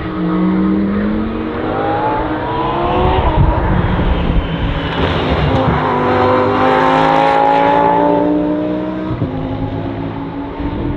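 Lamborghini Huracán Super Trofeo EVO2 race car's V10 engine accelerating hard: the pitch climbs through one gear, breaks at a shift, then climbs again for several seconds before levelling off near the end.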